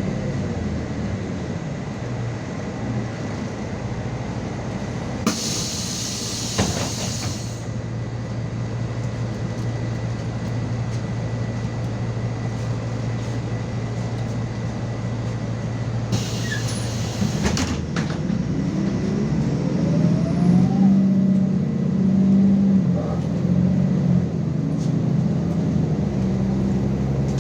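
MAZ 216 city bus engine running steadily, with two short bursts of compressed-air hiss about five and sixteen seconds in. In the last third the engine speeds up and grows louder, its pitch rising.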